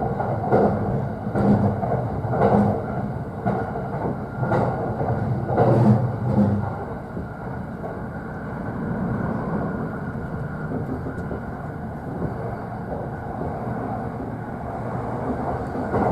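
JR East E531 series commuter train running, heard inside the upper deck of a double-deck car. Its wheels clack over rail joints about six times in the first seven seconds, then settle into a steadier rolling rumble.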